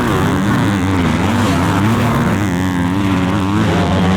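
Motocross dirt bike engines running at race pace, their pitch rising and falling over and over as the riders rev and shift.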